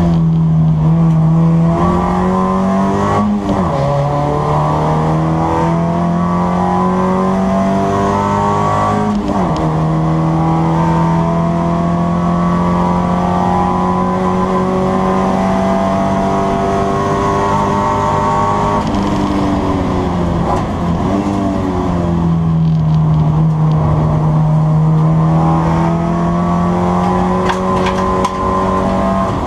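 BMW 318 Racing Series race car's engine running at racing speed, heard from inside its bare, roll-caged cabin. The engine note holds or climbs, then drops sharply a few times at gear changes.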